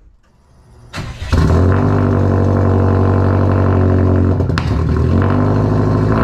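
Subaru WRX STI's turbocharged flat-four engine starting about a second in, then idling steadily.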